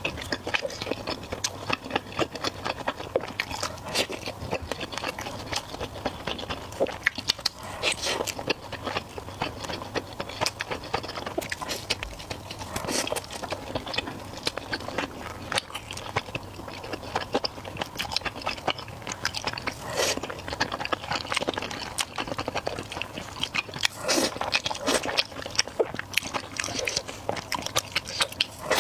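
A person eating close to the microphone: biting and chewing food, a dense run of irregular sharp clicks and mouth noises.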